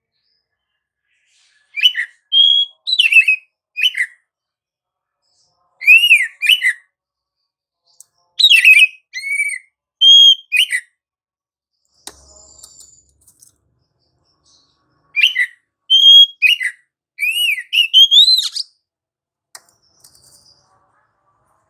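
Oriental magpie-robin (kacer) singing loud, rapidly varied whistled phrases of sweeping notes. The song comes in four bouts with pauses of a second or more between them.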